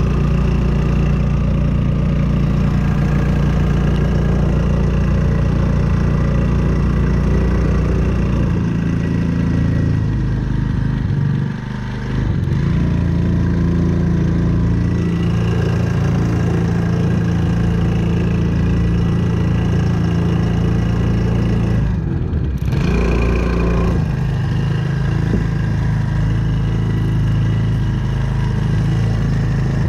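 Hangkai 4 hp four-stroke outboard motor running under load, pushing a boat onto its trailer, with the throttle changing a few times: a brief dip around twelve seconds in and another about twenty-two seconds in.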